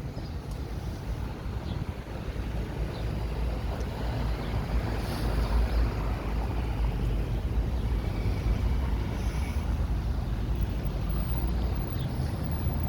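Street traffic: the low rumble of a motor vehicle swells and passes by through the middle of the stretch, over steady traffic noise.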